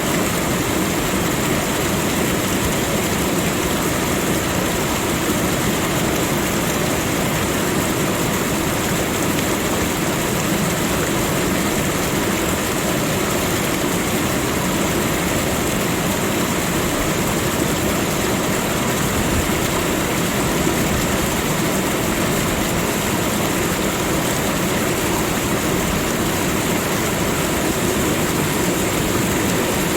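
Waterfall: falling water rushing with a loud, steady, unbroken noise.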